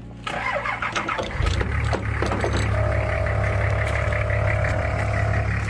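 A Nissan Patrol's engine starts about a second and a half in and settles into a steady idle. A steady single tone, like a vehicle warning chime, sounds for about three seconds in the middle.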